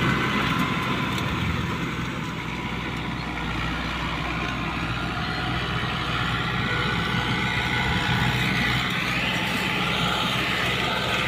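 New Holland 640 tractor's diesel engine running steadily.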